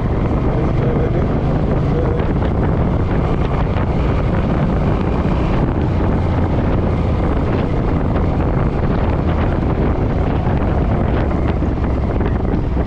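Heavy wind noise on the microphone over the steady low drone of a Suzuki M50 V-twin motorcycle riding at speed.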